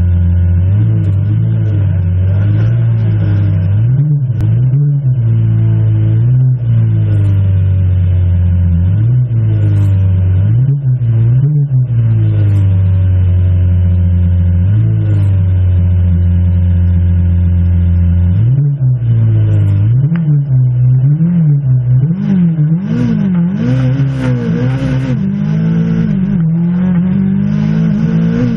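Peugeot 205 Turbo 16 Evo 1's turbocharged four-cylinder engine, heard from inside the car, idling and blipped every few seconds. The blips come quicker near the end, then the revs climb steadily as the car pulls away.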